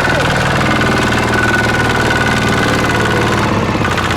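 Tractor engine running steadily under a constant load, with a steady high whine above the engine note.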